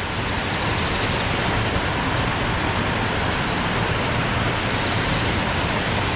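Waterfall rushing steadily, water falling over several rocky drops into splash pools. A few faint, short, high chirps sound about four seconds in.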